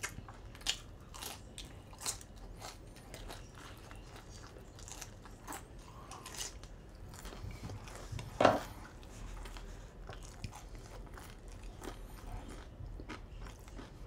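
A person chewing crunchy food close to the microphone: scattered small crisp crunches and mouth clicks, with one louder crunch about eight seconds in.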